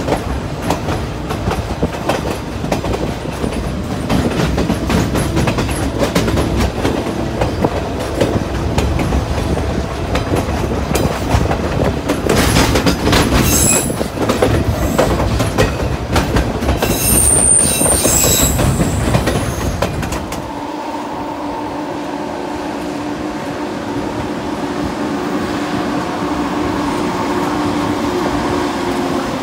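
Narrow-gauge passenger train rolling, its wheels clicking over the rail joints, with high wheel squeal from about twelve to nineteen seconds in. About twenty seconds in the sound changes abruptly to a quieter, steadier running hum.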